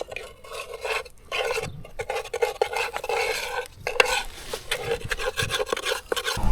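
Metal scraping, rasping and clinking in the oil-bath air cleaner's metal bowl, where the old oil has set solid like tar. The strokes are irregular and studded with small clicks.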